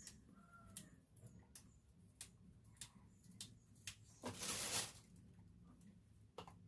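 A cat gives a short meow at the start, followed by light clicks about every half second and a brief hiss of noise, the loudest sound, about four seconds in.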